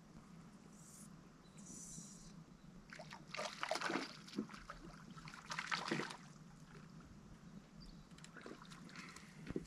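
Faint water trickling and sloshing, with two louder spells of splashing about three and a half and six seconds in.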